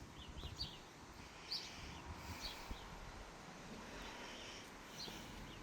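Faint outdoor ambience: a few short, scattered bird chirps over a low, steady background rumble.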